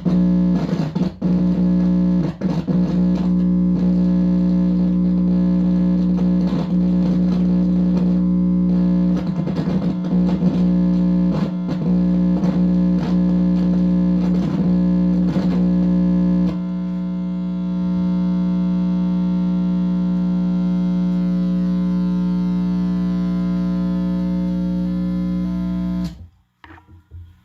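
Guitar amplifier with distortion putting out a loud, steady buzzing drone, with irregular crackles and pops for the first half. The crackles stop about halfway and the drone carries on, then cuts off suddenly near the end. The owner takes the buzz for electromagnetic attack signals picked up by his gear.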